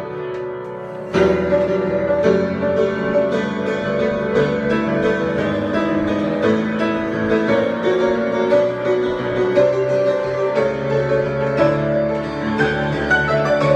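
Piano improvisation: a softer passage, then a loud chord about a second in, followed by busy, continuous playing of many notes.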